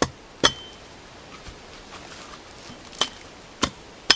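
Axe chopping branch stubs off a short log: five sharp strikes, two near the start and three more close together from about three seconds in, some followed by a brief metallic ring.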